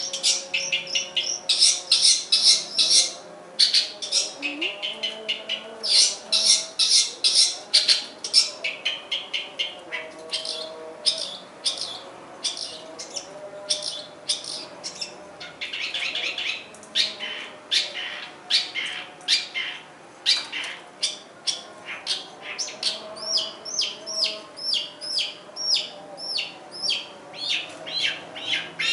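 Long-tailed shrike (cendet/pentet) singing a fast, unbroken string of varied chirps and trills, its mimicked 'isian' phrases. Near the end it repeats a short downward-sweeping note about three times a second.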